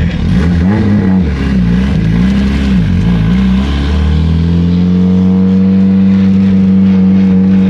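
Turbocharged KA24DET 2.4-litre inline-four in a Nissan 240SX running; its pitch rises and falls about three times, then settles into a steady drone from about four seconds in.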